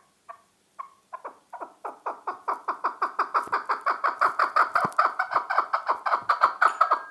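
Chukar partridge calling: clucking notes that speed up and grow louder from about a second in, building into a rapid run of several calls a second.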